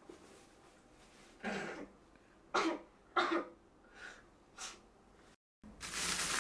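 A woman coughing into a tissue: five separate coughs, the middle two the loudest and sharpest. After a sudden cut near the end comes a brief noisy rustle.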